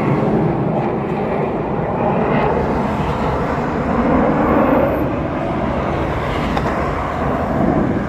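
Steady roar of Blue Angels jet aircraft over traffic noise, swelling slightly about halfway through.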